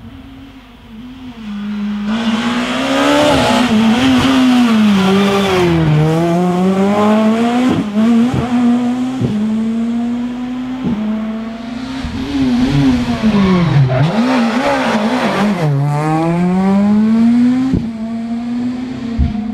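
Rally car engine at racing speed, the revs climbing and dropping over and over through gear changes. They fall deeply twice and climb back, with a few sharp cracks along the way. It gets loud about two seconds in.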